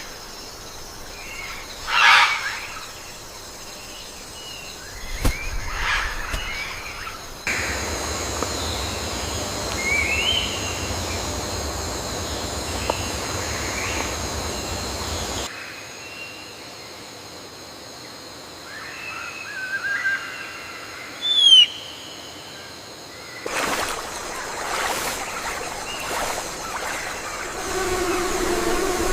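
Rainforest ambience: a steady high insect chorus with scattered bird calls and chirps, the loudest a sharp falling whistle about twenty-one seconds in. A stretch of even hissing noise fills the middle, and the background changes abruptly several times.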